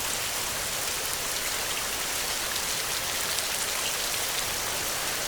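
Heavy rain falling steadily: an even hiss with many small drop ticks, and no thunder.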